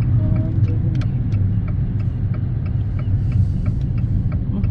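Steady low rumble of a car's engine and tyres heard from inside the cabin while driving. A light, even ticking, about three ticks a second, runs through the middle.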